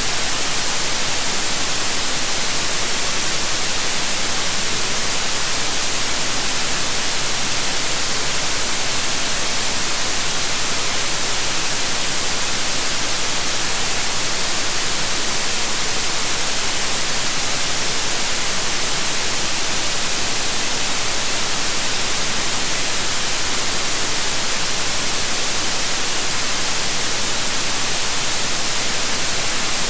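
Steady white noise: an even, unchanging hiss, strongest in the high end, with no variation.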